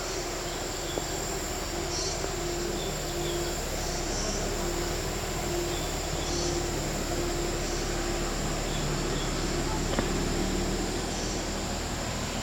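Insects chirping over a steady rushing background: a thin high buzz throughout, with short higher chirps every couple of seconds.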